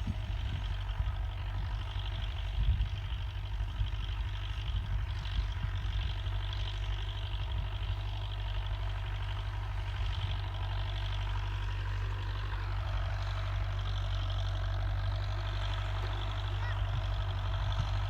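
Tractor engine running steadily with a low rumble, with a few irregular knocks in the first few seconds.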